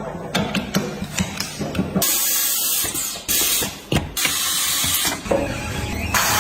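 Compressed air hissing in two loud bursts of about a second each, with a shorter burst near the end, after a stretch of quick mechanical clicking and rattling during tyre work.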